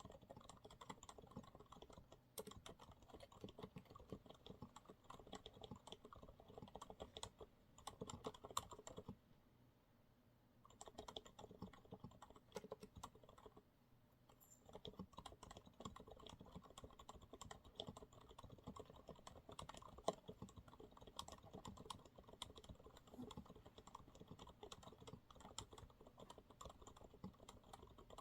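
Continuous typing on a Monsgeek MG108W keyboard with TTC silent brown switches: faint, muted keystrokes in quick runs, pausing briefly twice, around a third and halfway through.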